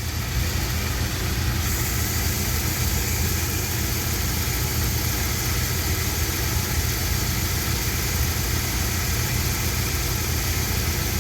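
Pickup truck engine idling steadily with a low rumble; a steady high hiss joins about two seconds in and stays.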